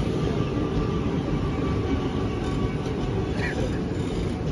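Passenger train of AC coaches passing close by at speed: a loud, steady rumble of wheels running over the rails.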